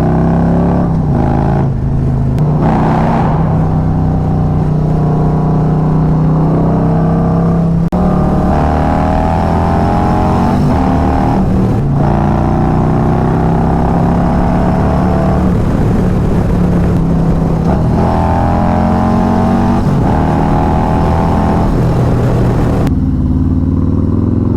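Harley-Davidson motorcycle's V-twin engine running steadily while riding, with wind rushing past, its pitch rising and falling gently with the throttle. Near the end the wind hiss drops away as the bike slows.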